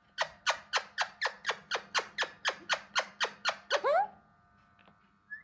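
Alexandrine parakeet calling: a fast run of harsh, downward-sweeping squawks, about four a second for over three seconds, ending in a few short rising chirps.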